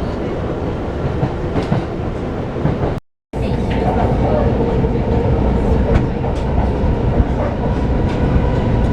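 Electric commuter train running on the rails: steady low rumble with wheel clatter. It cuts out briefly about three seconds in, then comes back with a steady whine over the rumble.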